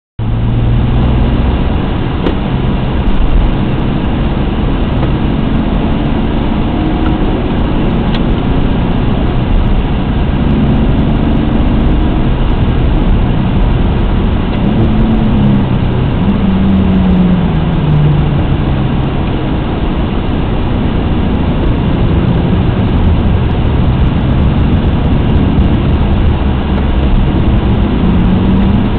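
Alfa Romeo GTA's 3.2-litre V6 engine heard from inside the cabin while driving on the track, its pitch rising and falling with throttle and gear changes over heavy road and wind noise.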